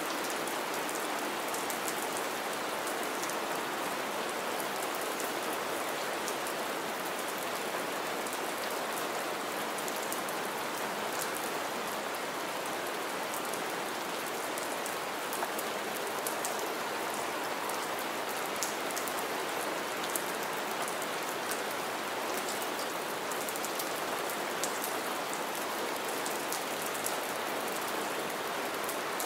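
Steady rain falling on wet ground and shallow standing water, with many small drop impacts ticking through it.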